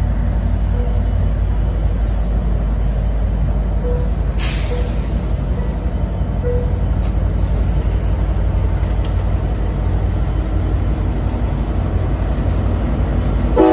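Amtrak Capitol Corridor bilevel train pulling out of the station, cars rolling past over a steady low rumble from its F59PHI diesel locomotive pushing at the rear. About four seconds in comes one sharp hiss of air from the train's air brake system.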